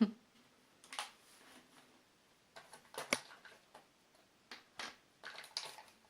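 Small plastic toy dishes clicking and tapping as they are pulled out of their plastic packaging: a handful of separate sharp clicks, the strongest at the very start and a quick cluster near the end.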